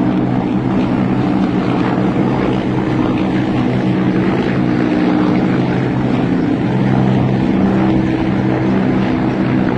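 Military helicopters in flight: a steady drone of rotors and turbine engines.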